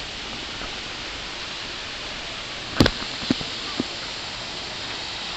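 Steady rush of running water at a pond. A sharp knock comes a little under three seconds in, followed by two smaller ones.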